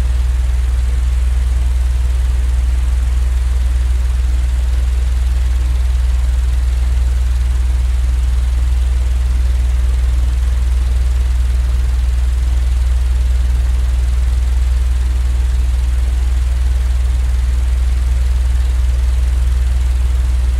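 Steady low drone of an electric fan played as sleep noise, even throughout, with most of its weight in a deep hum and only a faint hiss above.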